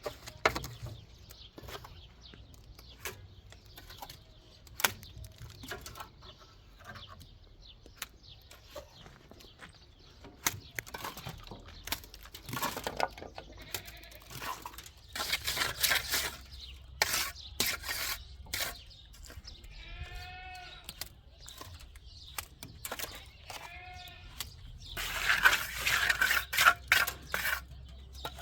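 A goat bleats twice, in the second half, against scattered scraping and knocking. A burst of louder scraping comes near the end.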